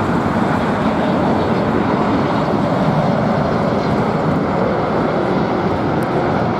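Boeing 747 jet engines, a loud, steady rumble.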